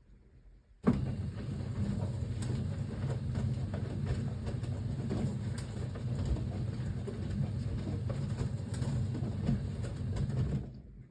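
Siemens WA4600 washing machine's drum turning on its wash motor, tumbling the wet jeans: a steady low rumble that starts suddenly about a second in and stops near the end. This is one stroke of the drum's stop-start wash action.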